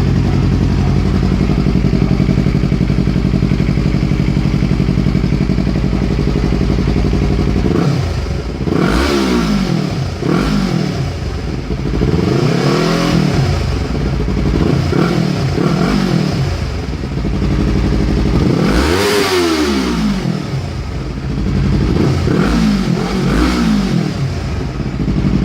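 Yamaha R3's parallel-twin engine breathing through an Akrapovič GP slip-on exhaust, idling steadily, then revved in a series of throttle blips that rise and fall in pitch, one bigger rev near the end.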